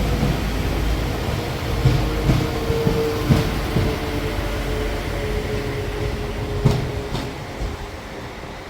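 Transport for Wales Class 197 diesel multiple unit moving slowly through the station: a steady engine drone with a held hum, and a few sharp knocks from wheels crossing rail joints. It fades toward the end.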